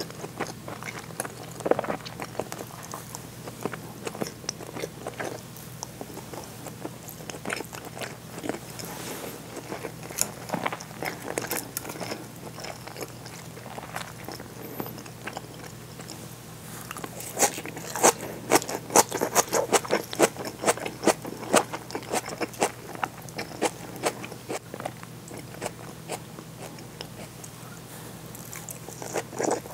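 Close-miked chewing of seared bonito, white rice and raw shredded cabbage and green onion, with wet mouth sounds and sharp crunches. The crunching grows dense and loud for several seconds a little past the middle, then thins out again.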